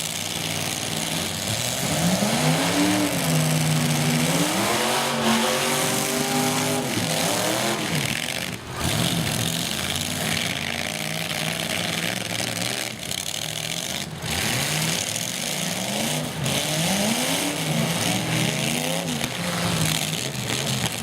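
Demolition-derby truck engines revving hard, their pitch climbing and falling again and again, with a few sharp bangs of metal impacts mixed in.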